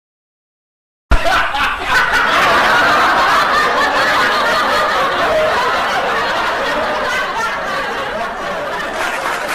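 Laughter from many people, cutting in suddenly after about a second of dead silence and carrying on loudly: a comic laugh track.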